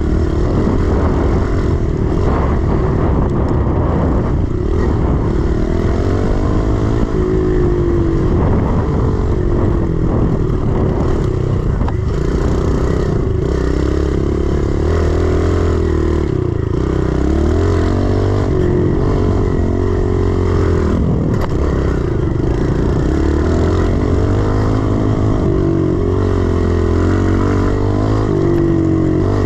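110cc four-stroke single-cylinder pit bike engine being ridden hard, revving up and dropping back over and over as the throttle is worked and gears change.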